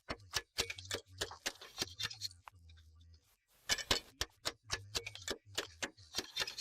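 Slater's hammer trimming and shaping slate with quick, light taps, several a second in irregular runs, over a low hum.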